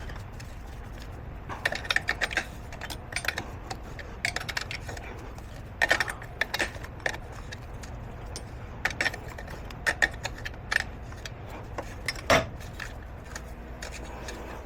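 Irregular metallic clinks and taps of a wrench working on the exhaust, loosening the wideband oxygen sensor with a 22 mm wrench, over a steady low hum.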